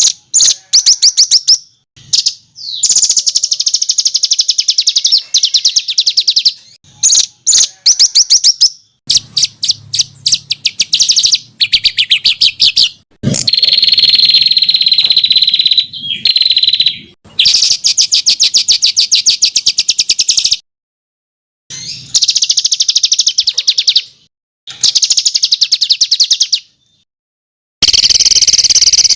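Songbird song recording: loud, very fast high trills and rattling chatter phrases, in bursts of one to three seconds broken by short silences, a 'masteran' tutor song of the kind played to train competition songbirds.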